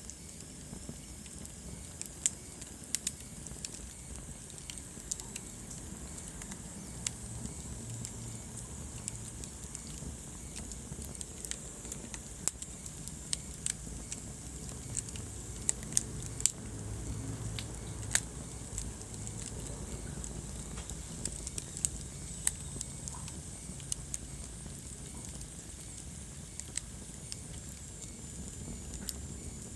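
Wood fire burning in a fireplace: a steady low rumble of flames with irregular crackling and sharp pops from the burning logs, a few pops much louder than the rest.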